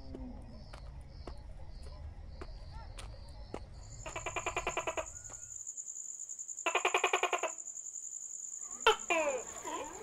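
Wild animal calls: a steady very high buzz like an insect from about four seconds in, two short fast pulsed trills, and a sharp gliding call near the end, over a low rumble in the first half.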